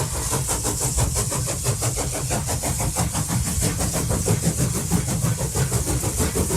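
N scale BLI 2-8-2 Mikado model steam locomotive running with its train: rapid, even chuffs with a hiss over a steady low rumble.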